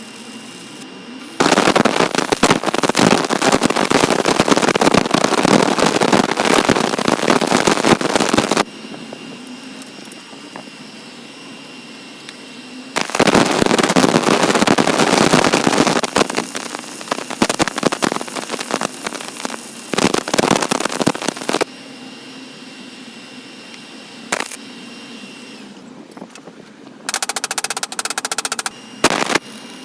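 Belt grinder driven by an angle grinder, running with a steady hum, with loud, crackling grinding bursts each time a workpiece is pressed against the abrasive belt. The longest pass lasts about seven seconds near the start, then come several shorter ones, and the last is near the end.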